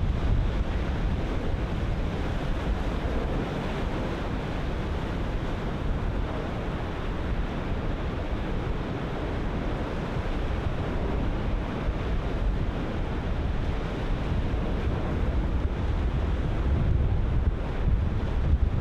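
Ocean surf breaking continuously, with wind buffeting the microphone as a heavy low rumble that gusts harder near the end.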